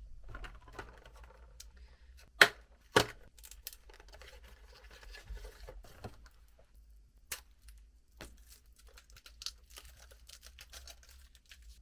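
Packaging of surprise toys being torn open and crinkled by hand, with scattered small clicks and two loud sharp snaps about two and a half and three seconds in.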